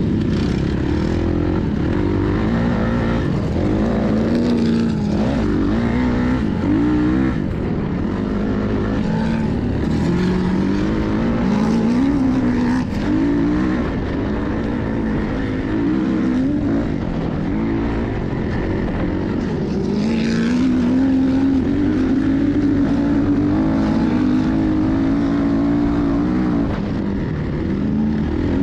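Four-stroke 450 dirt bike engine being ridden, its pitch rising and falling again and again with the throttle, with a heavy wind rumble on the microphone.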